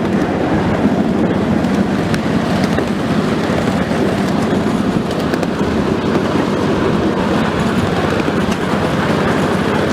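Passenger train running along the track, a steady rumble of wheels and car noise with faint occasional clicks from the rails, heard from on board.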